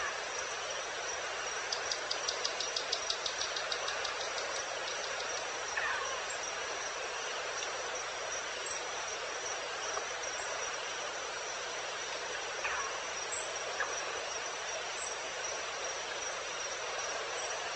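Evening natural ambience of steady, high-pitched insect chirring, likely crickets, over a constant hiss of background noise. About two seconds in, a fast run of clicking pulses lasts roughly two seconds, and a few short, faint calls come later.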